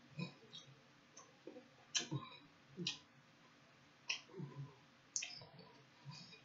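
Mouth sounds of someone eating barbecue ribs by hand: chewing with wet lip smacks, sharp clicks about once a second.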